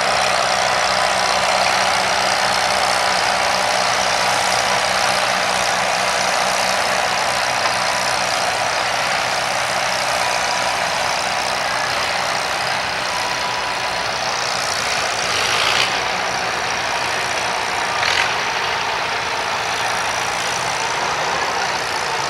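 Antique farm tractor engine running hard and steadily under load as it pulls the sled, with two brief sharp higher sounds late on.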